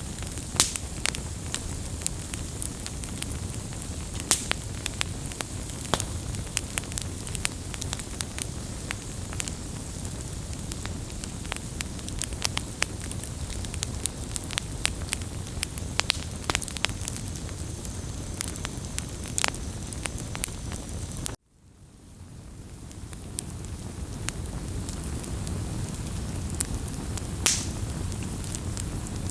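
Wood campfire burning, with a steady low hiss and frequent sharp crackles and pops. About two-thirds of the way through it cuts out suddenly and fades back in over a few seconds.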